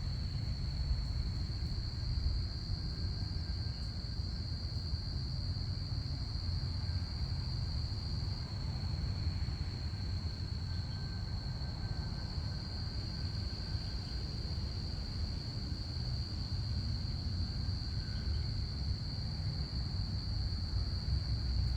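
Crickets chirping in a steady, continuous high-pitched chorus over a low rumble.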